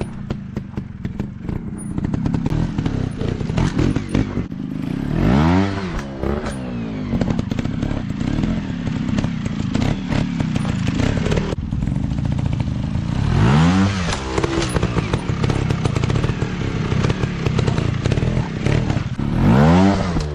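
Off-road dirt bike engines running hard, with a rough, rattling exhaust note; about three times the revs swell up and fall back.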